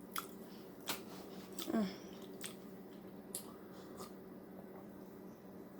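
Quiet eating sounds from a person eating soup: a scattering of small clicks and mouth noises. About two seconds in there is a short, falling hum of the voice, and a faint steady hum lies underneath.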